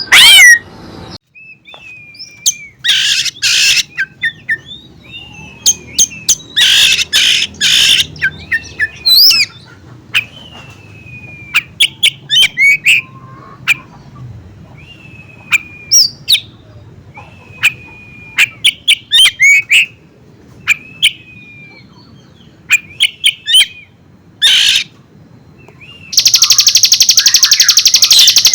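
Songbirds singing: scattered short whistled notes and sharp chips with pauses between them, then a loud, fast, continuous trill that begins near the end.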